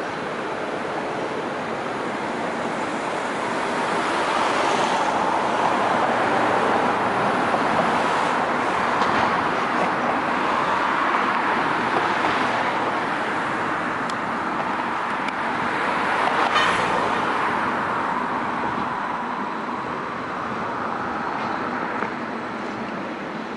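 A passenger train rolling over the station tracks: a steady rolling noise that swells over the first few seconds, holds through the middle and fades toward the end, with one sharp click about two-thirds of the way through.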